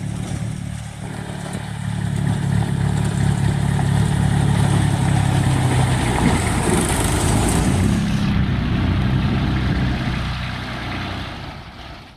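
An engine running steadily, getting louder about two seconds in and fading away near the end.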